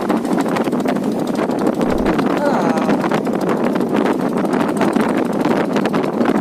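Strong wind buffeting the microphone over a steady rush of rough sea around a boat in heavy weather.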